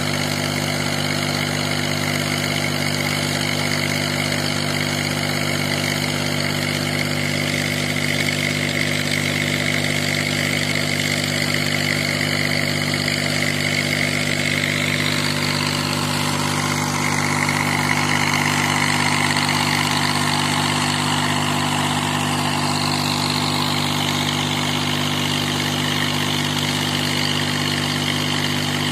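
Tractor engine running at a steady speed, driving a PTO-operated generator: a constant mechanical hum with a steady high whine above it.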